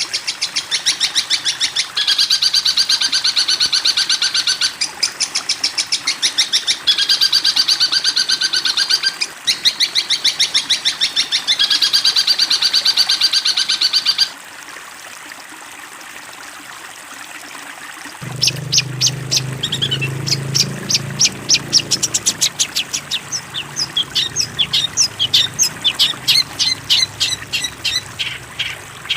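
Recorded songbird song: runs of rapid, buzzy repeated notes about two seconds long, broken by short pauses. After a brief lull about halfway through, a different series of quick, sharp chirps begins over a low hum.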